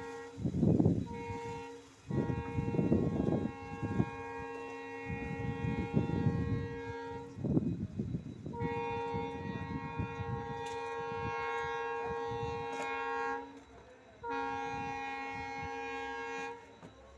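Locomotive horn sounding a series of long blasts, five in all with short breaks, the middle ones lasting about five seconds each, over low rumbling from the passing train.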